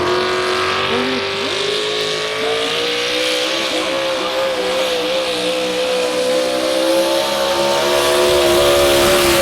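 Modified 4x4 pulling truck's engine running hard at high revs under load while pulling the sled, its note rising slowly through the run.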